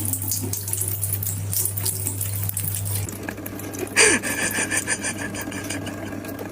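Water running, as from a tap, with a steady low hum for the first few seconds. A brighter hiss starts about four seconds in.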